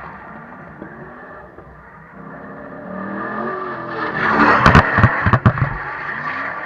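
Drift car engine revving up and down as it slides. A cluster of several loud sharp cracks comes about four to five and a half seconds in.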